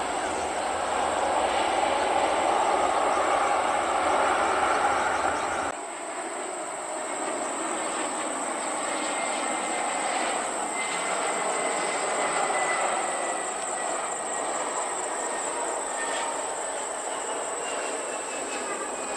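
Jet airliner engine noise, a steady rumbling roar that drops suddenly to a quieter level about six seconds in, with faint high whining tones gliding in pitch later on.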